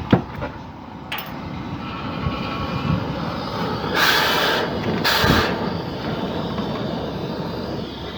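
Compressed air hissing in two short bursts over a steady machinery rumble, with a few sharp clicks near the start.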